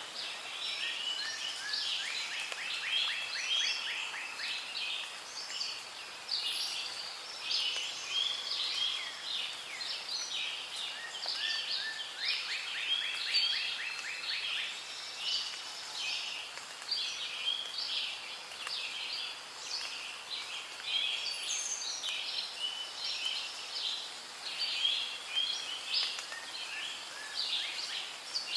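Rainforest ambience: a dense chorus of many birds calling and chirping over one another, with a fast rattling trill twice, about two seconds in and again about twelve seconds in.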